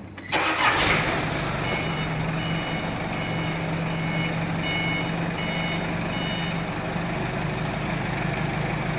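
Machinery starting with a sudden surge about a third of a second in, then running steadily with a low hum, while short two-pitch electronic beeps sound again and again at uneven spacing, like a reversing alarm.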